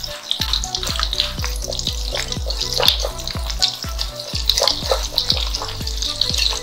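Turubuk (sugarcane-flower) fritters frying in shallow oil in a wok, sizzling and crackling as a spatula works them in the pan. Background music with a steady beat plays underneath.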